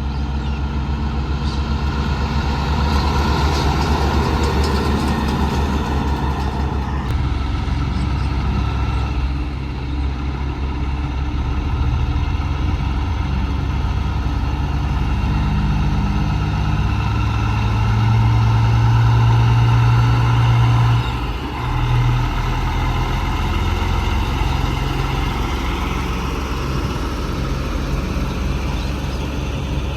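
Heavy truck engines running steadily. A deep engine note grows louder from about the middle and is loudest just before a brief sudden dip.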